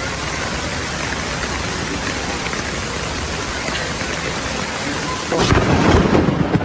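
Steady hiss of heavy rain, then a loud low rumble of thunder breaking in about five seconds in and continuing.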